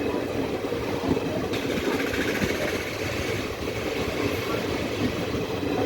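Passenger train's steady rumble, with a higher hiss joining in about a second and a half in.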